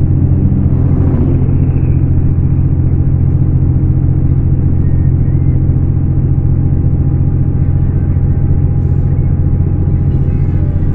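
Scania K410 coach's diesel engine running steadily, a deep, even drone.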